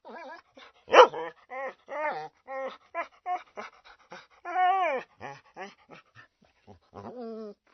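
A dog whining: a quick string of short, high, wavering whimpers, with a loud sharp yip about a second in and a longer falling whine around the middle.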